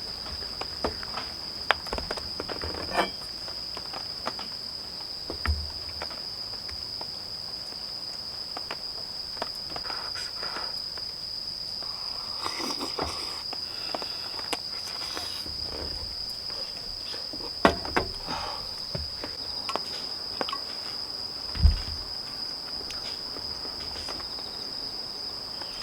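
Crickets chirring in a steady, high-pitched drone, with scattered clicks and knocks and two louder thumps about two thirds of the way through.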